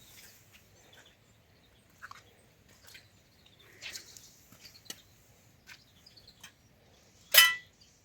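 Scattered faint bird chirps and small clicks outdoors, then one short, loud, pitched animal call about seven seconds in.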